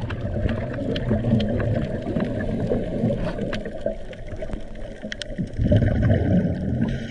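Underwater sound of churning water and gurgling bubbles as a low rumble, swelling for a moment about six seconds in, with scattered faint clicks above it.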